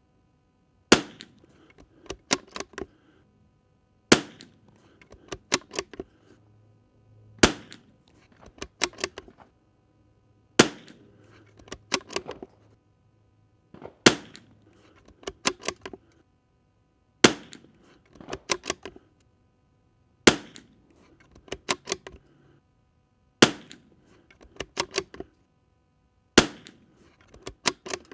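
.22 LR Tikka T1X bolt-action rifle fired nine times at a steady pace, about one shot every three seconds. Between shots comes a quick run of metallic clicks as the bolt is worked to chamber the next round from the magazine.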